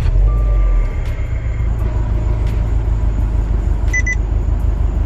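2018 Subaru WRX STI's turbocharged flat-four catching after a long crank on its first start since the ECU reflash. It flares for about a second, then settles into a steady idle. Two short electronic beeps come about four seconds in.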